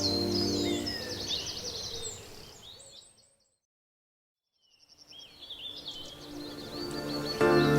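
Background music with birdsong chirping over it. The music fades out with the birds, leaving silence for a second or two midway, then the birdsong fades back in and the music resumes near the end.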